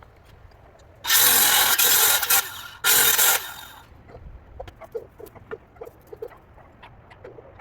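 Two short bursts of a power tool, the first about a second and a half long and the second under a second, each starting suddenly, followed by light scattered clicks and knocks.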